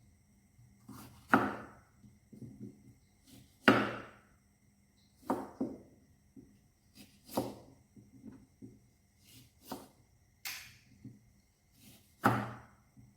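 A series of sharp knocks or thuds at irregular intervals of one to two seconds, each dying away quickly, with smaller taps between them.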